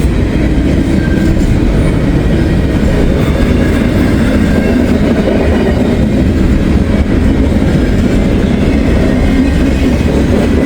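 Norfolk Southern intermodal freight train of container cars rolling past close by, a steady loud rumble and rattle of wheels on rail.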